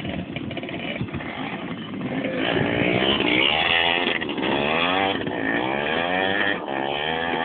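Motocross dirt bike engine revving hard as it accelerates through the gears. The pitch climbs and falls back at each shift, about four times.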